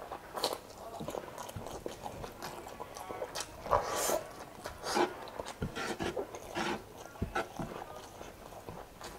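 Close-miked eating sounds: mouth chewing and biting on saucy chicken and rice, with irregular wet smacks and small crunches, and one louder, longer burst about four seconds in.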